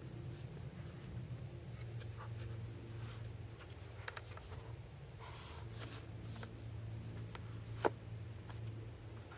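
Faint scratching and rubbing of hands working wood pieces at a bench, with one sharp tap or click about eight seconds in, over a steady low hum.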